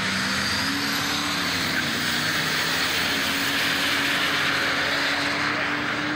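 A street car's engine at full throttle, launching and running down a drag strip. Its note climbs in the first second, then holds steady and loud under a dense haze of noise.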